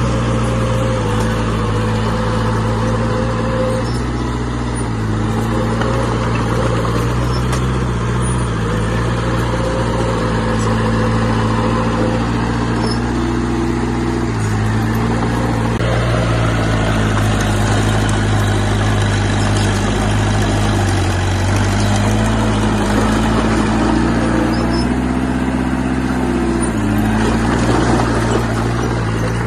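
Diesel engine of heavy earthmoving machinery running steadily under load, its pitch rising and falling several times as the throttle changes.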